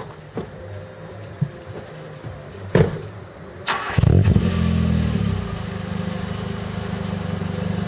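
Nissan Primera P10's 1.6-litre four-cylinder engine heard at the exhaust: a couple of sharp clicks, then the engine note jumps up loudly about halfway through, falls back and settles into a steady idle.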